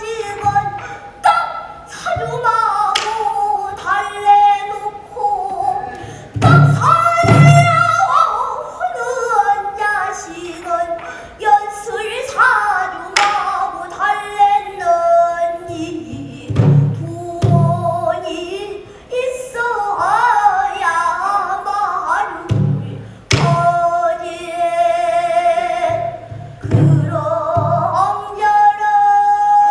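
A child singing pansori in a strained, wavering voice with wide vibrato and bending, sliding notes, in a lament. A buk barrel drum gives low thuds now and then, in pairs, under the voice.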